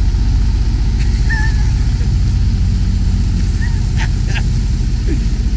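Semi tractor's diesel engine running steadily at low revs, heard from inside the cab during a slow backing manoeuvre. Two short clicks come about four seconds in.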